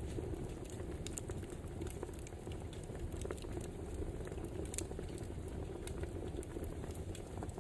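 Wood fire crackling: scattered sharp pops and snaps over a steady low rush of burning logs.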